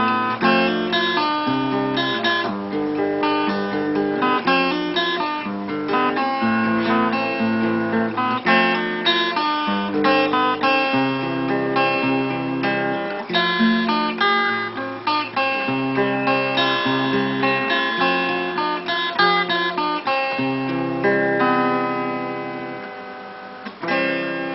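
Acoustic guitar playing an instrumental piece, plucked melody notes over a moving bass line, the final notes ringing out and fading near the end.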